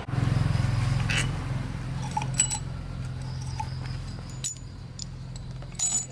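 Metal tools and parts clinking and knocking in a few separate sharp strikes, over a steady low hum.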